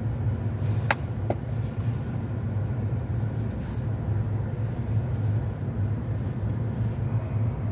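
A motor vehicle's engine running at a steady low hum. There is a sharp click about a second in and a fainter one just after.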